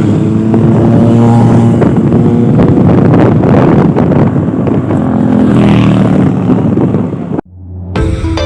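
Motorcycle engines running and revving, with wind buffeting the microphone. The engine sound cuts off suddenly about seven seconds in, and music begins near the end.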